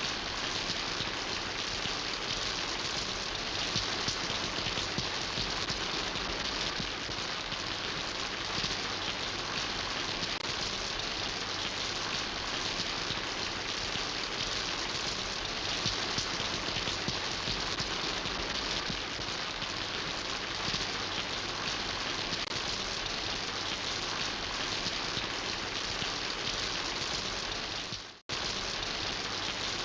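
Steady rain falling, an even hiss of drops. Near the end it fades out briefly to silence and comes straight back.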